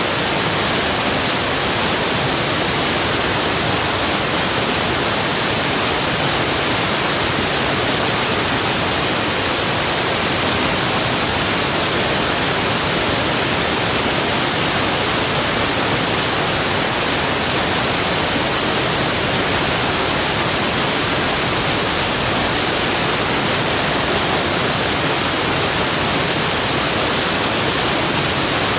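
Waterfall rushing: a steady, even hiss of falling water, strongest in the high range, without any change.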